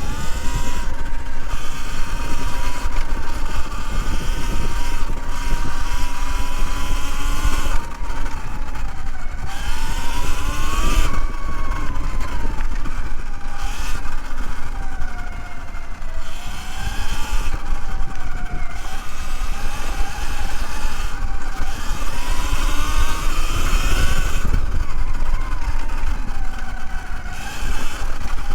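Segway X160 electric dirt bike riding on a trail: the electric motor's whine rises and falls with each burst of speed, over a steady low rumble of wind and tyres.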